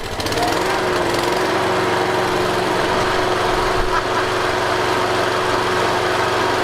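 Victa Ultimate lawn mower's engine running steadily just after an electric start, picking up to a steady speed within the first half-second.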